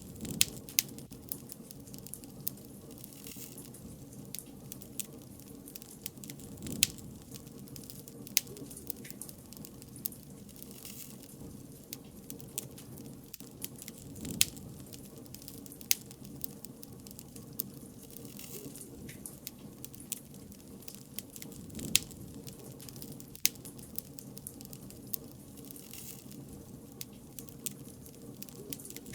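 Wood bonfire crackling, with sharp irregular pops every second or so over a steady low rumble of burning.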